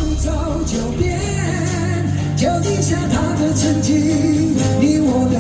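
Live pop-rock band music, with drums, bass and a sung melody line.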